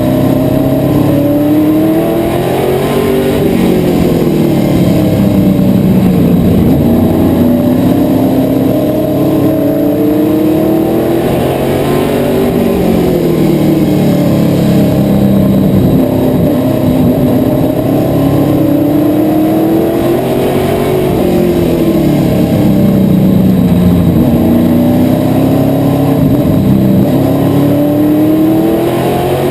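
Asphalt modified race car's V8 engine at racing speed, revving up and falling back again and again every few seconds as it accelerates and lifts off.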